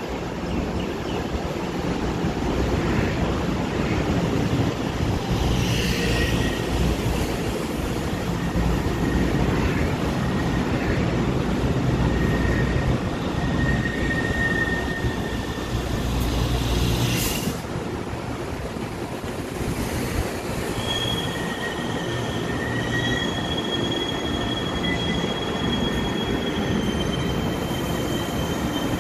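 Taiwan Railway EMU500 electric commuter train rolling in along the platform, its wheels rumbling steadily with thin high squeals as it slows. About 17 seconds in there is a short sharp noise and the rumble drops, leaving a lower hum with high whining tones.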